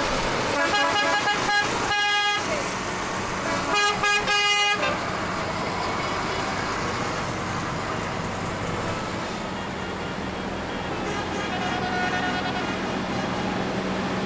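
Vehicle horns tooting three times in the first five seconds, over the steady running of engines that carries on after the horns stop.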